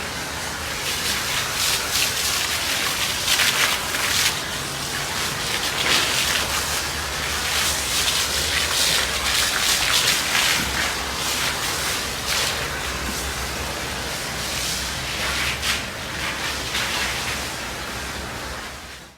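Water spraying and splashing onto a vehicle's body, a steady hiss that surges and eases, over a faint low hum. It cuts off suddenly at the end.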